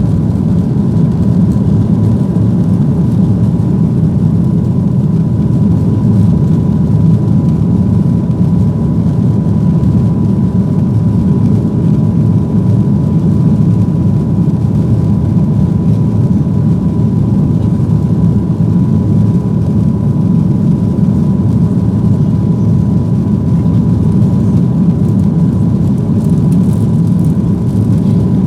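Cabin noise of a Boeing 737-800 with its CFM56 turbofans running: a loud, steady rumble with a thin steady whine above it, holding level without rising or falling.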